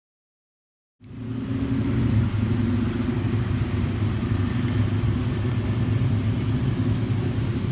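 A motor vehicle's engine running steadily with a low hum, cutting in abruptly about a second in.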